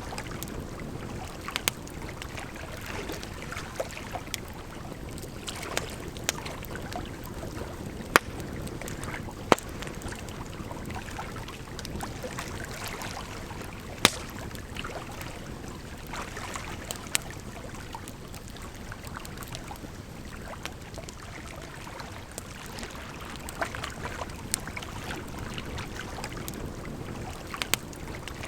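Wood fire crackling, with irregular sharp pops, a few of them much louder, over a steady rush of running water.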